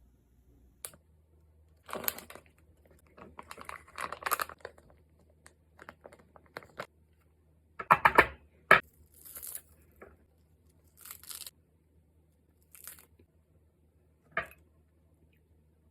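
Plastic food packaging being torn open and crinkled in short bursts. A couple of sharp knocks come a little past the middle.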